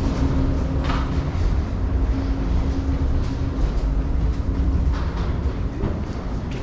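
Airliner cabin noise after landing: a steady low rumble with a steady hum that fades about halfway through, and a few faint clicks.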